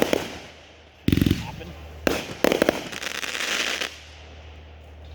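Consumer fireworks going off: a heavy boom about a second in, more sharp reports about two seconds in, then a stretch of crackling that dies out near the end.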